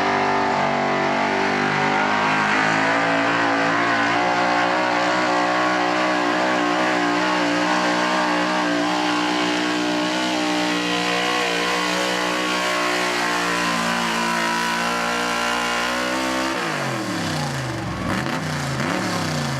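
A 4x4 truck's engine held at high revs under load, wavering slightly, for about sixteen seconds. The revs then drop off steeply and rise and fall a couple more times near the end.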